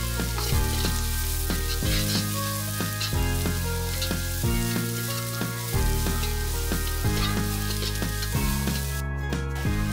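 Onions and chopped garlic sizzling as they fry in a wok while being stirred, a dense steady hiss that breaks off briefly near the end. Background music plays throughout.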